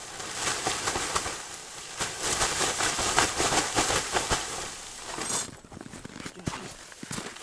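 Stiff tent fabric rustling and crumpling, with scattered small clicks, as a winter cube tent is collapsed and folded. It dies down to a few light clicks for the last couple of seconds.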